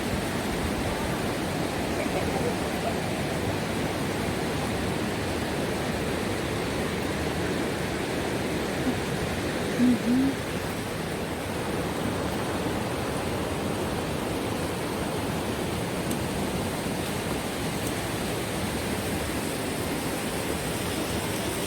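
Steady rushing of river water over rapids, an even unbroken roar. Two brief short sounds stand out about halfway through.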